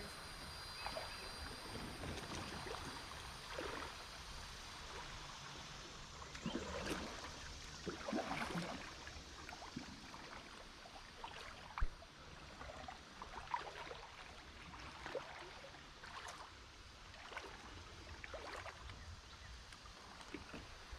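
Kayak on a shallow river, with soft irregular splashes and trickling water as it moves upstream against the current. A single sharp knock comes a little before the middle.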